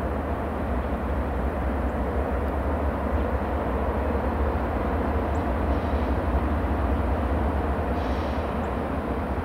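Norfolk Southern freight train running past, a steady low rumble.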